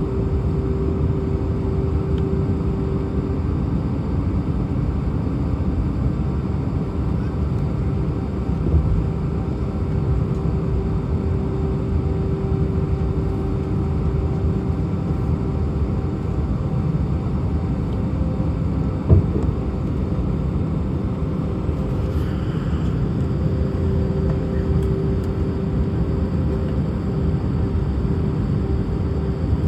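Steady rumble of an Airbus A319's jet engines and airframe heard from inside the passenger cabin, with a steady hum running through it. A single brief knock about two-thirds of the way through.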